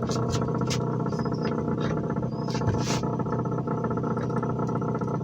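Tohatsu outboard motor running steadily, with a few light clicks and knocks over the engine sound.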